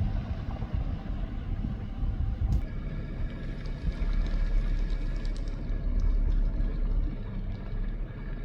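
Vehicle driving on the road: a steady low engine and road rumble.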